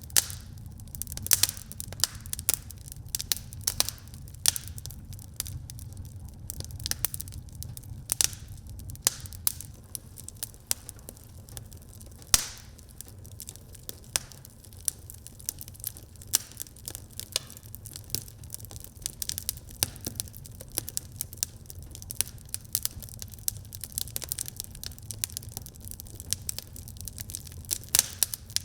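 Wood fire burning in a fireplace, crackling and popping irregularly over a steady low rumble of the flames, with a sharper pop about twelve seconds in.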